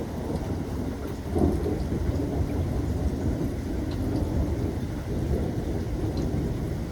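Rain falling steadily while thunder rolls low underneath. A rumble swells about a second and a half in and keeps rolling through the rest of the stretch.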